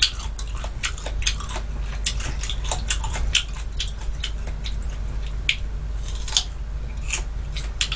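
Close-up crunching and chewing of crisp sweet persimmon (dangam) slices: a quick, irregular run of sharp crunchy clicks, over a faint low hum.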